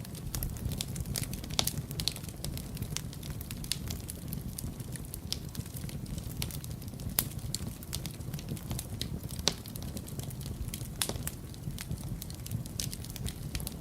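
Wood fire burning in a fireplace: a steady low rumble of flames with frequent irregular crackles and snaps, a few sharper pops standing out.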